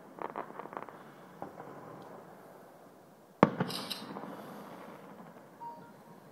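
Fireworks going off at a distance: a quick string of small crackling pops, then one loud bang about three and a half seconds in, followed by a short high hiss and crackle.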